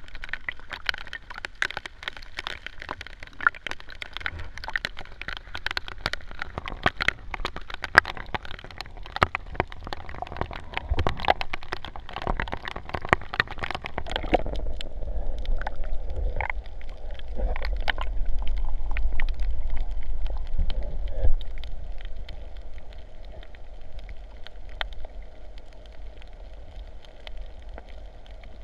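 Rain falling on the sea, a dense crackle of drops pattering on the water. About halfway through the sound turns abruptly muffled, with a low rumble and only scattered drops left.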